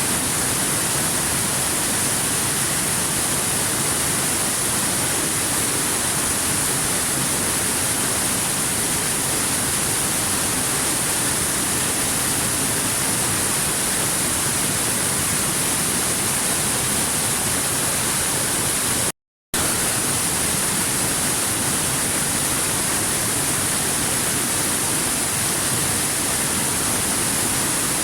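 Steady, unbroken rush of a waterfall, an even hiss across all pitches, with a brief cut to silence about two-thirds of the way through.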